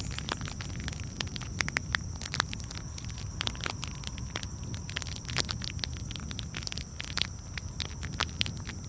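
Campfire crackling, with many irregular sharp pops and snaps over a low, steady rumble.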